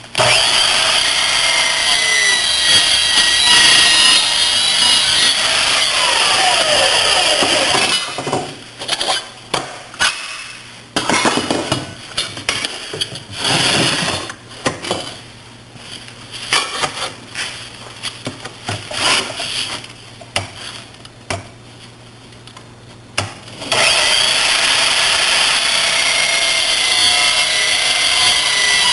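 REXON metal-cutting sliding miter saw running through a cut, its motor and blade spinning down with a falling pitch about seven seconds in. About fifteen seconds of scattered knocks and clatters of handling follow, then the saw starts again and runs loudly.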